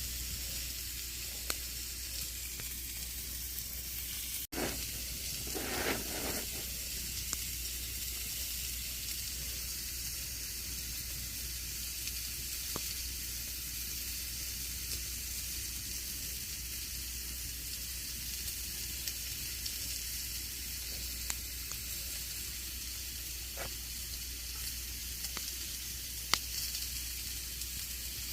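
Campfire burning: a steady hiss of burning wood with scattered sharp crackles and pops. About four seconds in, the sound cuts out for an instant, then a short rushing flare follows.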